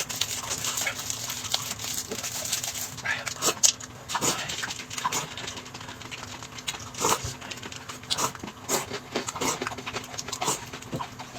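Close-up eating sounds: rapid slurping and wet mouth smacks from someone drinking soup and chewing, with scattered small clicks.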